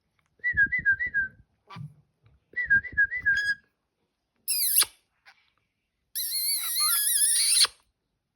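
Caique parrot vocalizing: two short warbling whistle phrases with soft thumps beneath them, a brief high falling squeal about halfway, then a longer, louder, shrill warbling call near the end.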